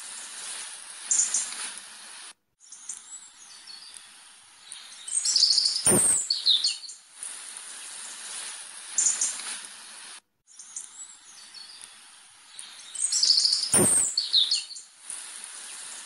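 Birds chirping, with quick high chirps that fall in pitch over a steady hiss. A sharp click comes about six seconds in and again near the end, and the sound cuts out briefly twice. The same passage repeats about every eight seconds.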